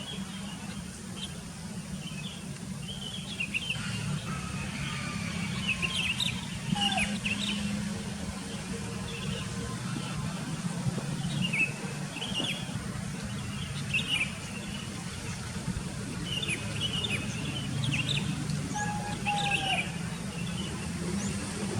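Sooty-headed bulbuls calling with quick, bright chirps that come in clusters every second or two, with a few falling whistled notes among them. A steady low engine-like hum runs underneath.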